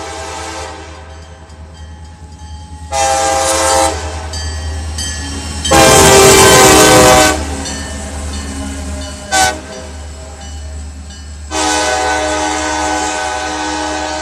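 CSX locomotive's five-chime K5LA air horn sounding a series of blasts: one ending just as it begins, a short one about three seconds in, a loud longer one around six seconds, a quick toot, and a long blast near the end. The locomotive bell rings between blasts, over the steady rumble of the diesel engine.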